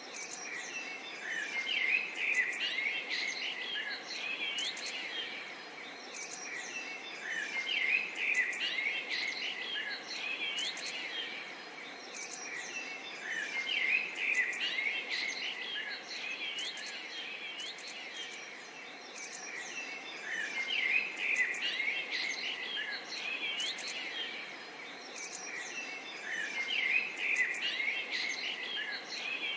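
Many small birds chirping and twittering together over a steady soft outdoor hiss. The chorus swells into busier clusters about every six seconds.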